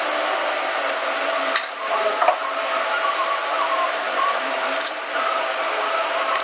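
Steady whirring blower noise with a faint steady tone running underneath, broken by a few small clicks and knocks around two seconds in.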